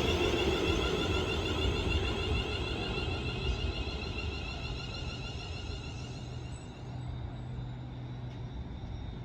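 Electric multiple-unit train running on the line, its rumble and wavering whine fading steadily as it slows, leaving a low steady hum from about three seconds in.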